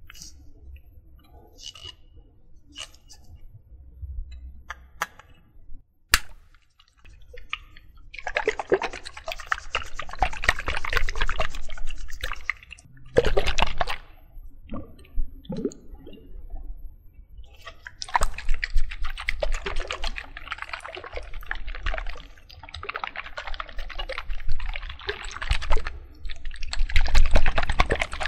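Close-miked water sounds: a few light clicks at first, then liquid splashing in two long spells, the first from about eight seconds in and the second from about eighteen seconds in, with a short louder splash between them.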